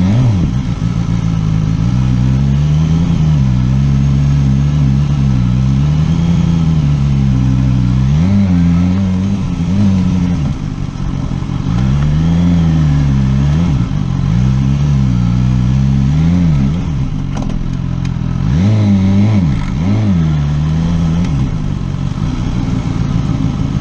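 Motorcycle engine revving up and down again and again in short throttle bursts, the kind of riding done on a tight low-speed gymkhana course. There is a short drop-off about 17 seconds in, then two quick blips.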